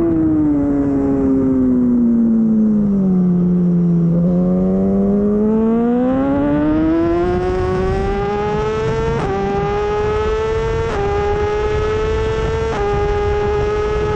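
Superbike engine on a race track: the revs fall for a few seconds, then climb steadily, then hold high with three sharp gear changes about two seconds apart near the end.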